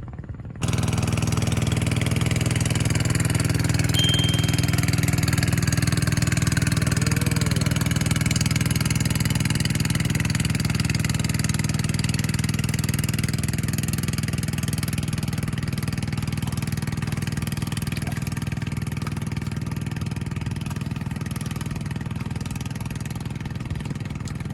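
A small engine running steadily at a constant speed. It cuts in abruptly about half a second in and slowly fades toward the end.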